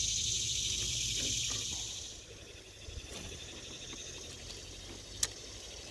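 Insects calling in a steady high buzz that stops about two seconds in. After that comes a quieter outdoor background with one sharp click near the end.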